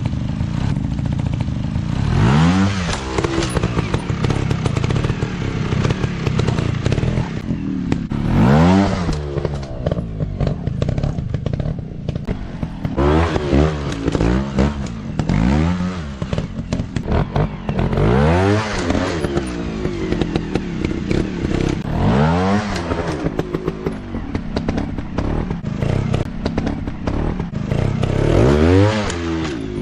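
Dirt bike engine running, revved up and back down again and again in short bursts, about eight times, several close together midway.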